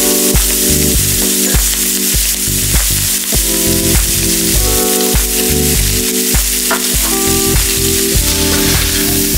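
Cabbage, onion and minced pork sizzling steadily as they stir-fry in oil in a wok. Background music with a steady beat plays over the sizzle.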